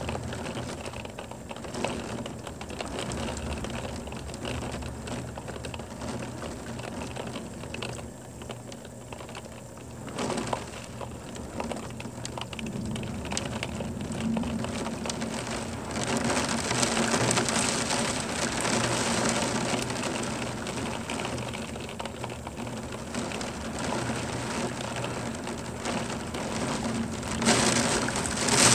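Rain pouring down during a thunderstorm, a steady hiss of falling water that grows noticeably heavier about halfway through.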